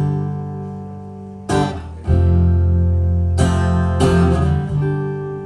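Acoustic guitar playing a few slow strummed chords, each left to ring and fade.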